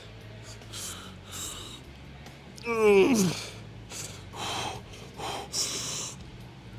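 A man breathing hard in short, sharp breaths, with a loud groaning sigh that drops in pitch about three seconds in.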